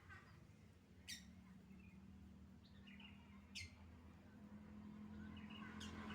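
Caged bird giving sharp, quickly falling chirps, two clear ones about a second and three and a half seconds in and a fainter one near the end, with short soft calls between, over a faint low hum.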